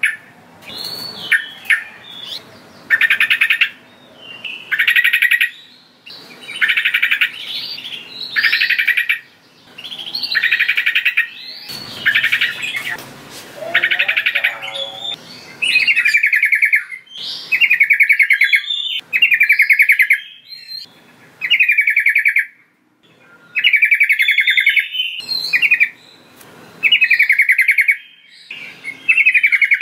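Sooty-headed bulbul (trucukan) singing: short, rapidly trilled phrases, each about a second long, repeated roughly every two seconds.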